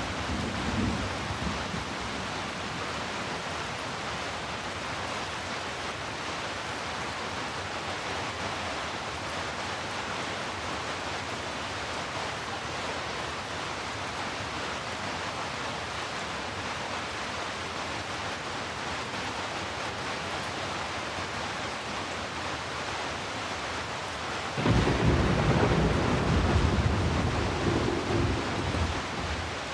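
Steady heavy rain hissing. A low rumble of thunder dies away in the first second or so, and another breaks in suddenly near the end and rolls on for about four seconds, louder than the rain.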